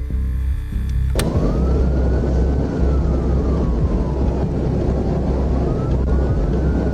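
Police cruiser siren in a slow rising-and-falling wail over loud engine and road noise at speed. It starts after a sharp click about a second in.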